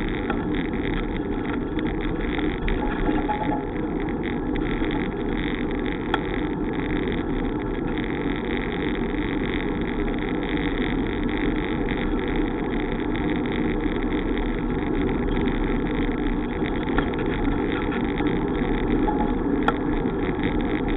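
Steady rushing noise of riding a bicycle, tyre and wind noise on a bike-mounted microphone, with a couple of faint clicks.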